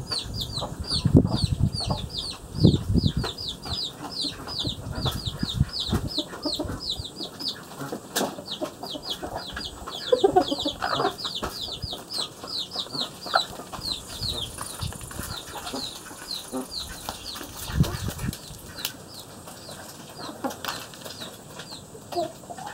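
A bird chirping in a fast, steady run of short falling chirps, about four a second, that thins out and stops about three-quarters of the way through. A lower, deeper bird call comes near the middle, and there are low thumps in the first few seconds.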